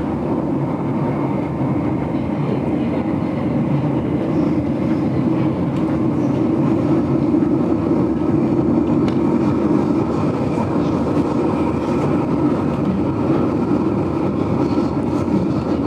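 Steady rumble of the GoldenPass Belle Époque train running along the track, heard from inside the carriage, growing slightly louder a few seconds in.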